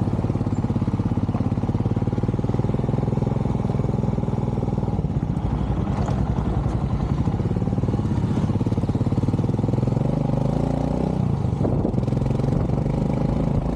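Motorcycle engine running steadily with an even firing beat; its pitch drops briefly about eleven seconds in, then rises again.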